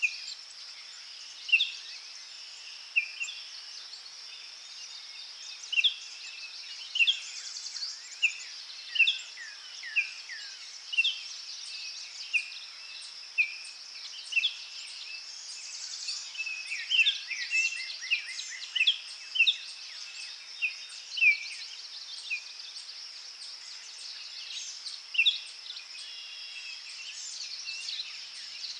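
Forest ambience: birds giving short, sharp chirps about once a second, some in quick runs, over a steady high buzz of insects.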